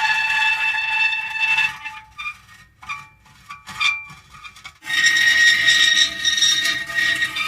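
Metal creaking: a long creak held at a steady pitch, then a few seconds of small scattered creaks and ticks, then another long, higher-pitched creak starting about five seconds in.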